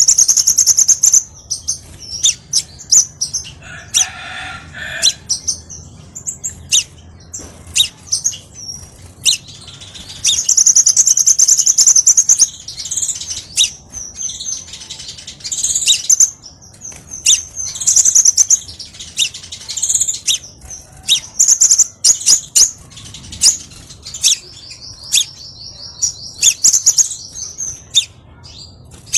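Crimson sunbird song: a busy run of high, thin chirps and fast rattling trills, with two long rapid trills, one about ten seconds in and one near the end.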